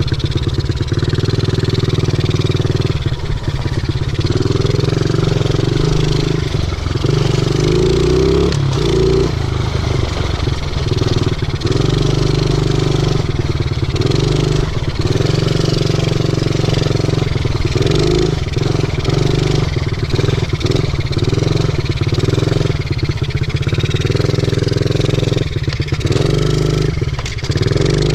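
A 50cc pit bike's small single-cylinder engine running while being ridden, its revs rising and falling again and again as the throttle is opened and closed.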